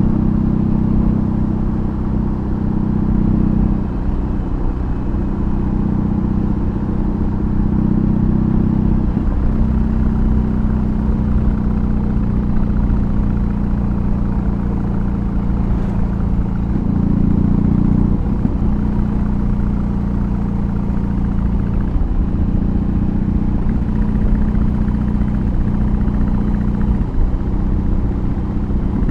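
2022 BMW R18's 1802 cc boxer twin running steadily under way. Its low exhaust note steps in pitch a few times as the throttle changes, with a brief louder rise in revs about seventeen seconds in.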